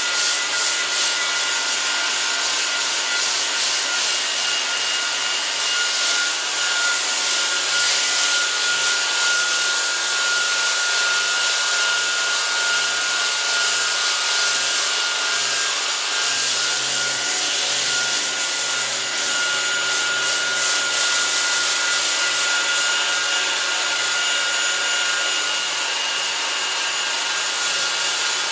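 Power sander with a sanding disc running steadily against the painted steel of a mower, rubbing off old paint and rust, with a constant high motor whine under the grinding hiss.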